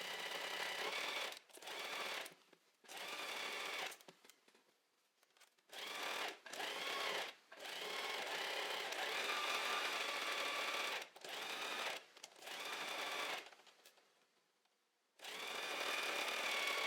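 Domestic sewing machine stitching a seam in jersey fabric, run in about eight short bursts with brief stops between them. The motor's whine climbs in pitch as each burst gets up to speed.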